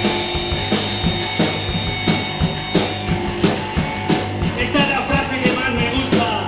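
Live rock band playing a song: drum kit with regular cymbal and snare hits over distorted guitar and bass, with singing coming in from a bit past the middle.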